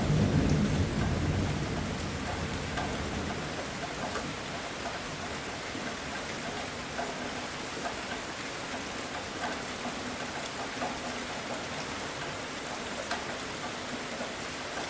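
Heavy rain falling steadily, with scattered drop ticks, as the low rumble of a thunderclap dies away over the first few seconds.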